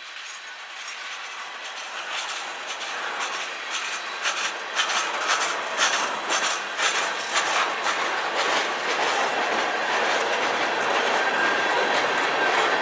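Freight cars of a CN manifest train rolling past, their wheels clacking on the track and growing louder over the first half. A faint wheel squeal comes in near the end.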